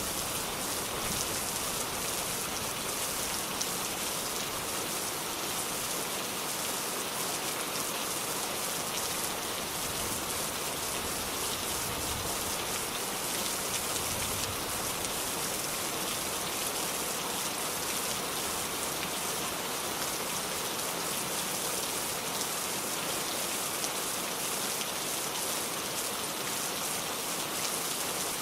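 Steady rainfall, an even hiss of drops pattering on a surface, with no change in intensity.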